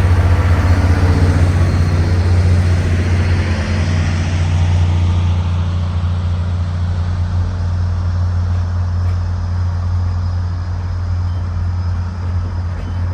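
Diesel locomotive engine running with a steady low drone, while a broader rumble over it eases off over the first several seconds.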